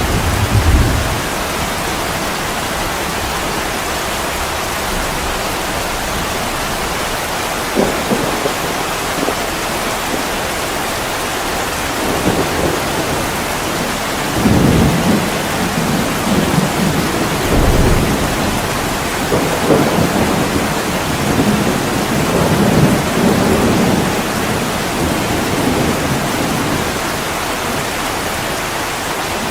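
Heavy rain pouring steadily against an attic window, a constant even hiss, with low rolling rumbles of thunder swelling and fading through the middle stretch.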